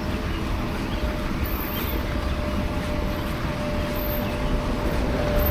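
Interior noise of an Inekon streetcar: a steady low rumble and hiss with a thin, steady whine.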